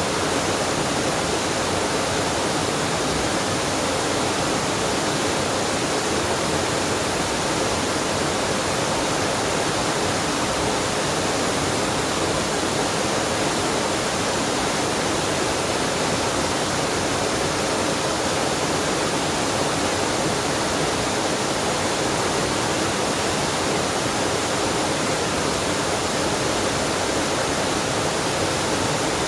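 Waterfall and mountain stream: water rushing steadily as an even, unbroken hiss.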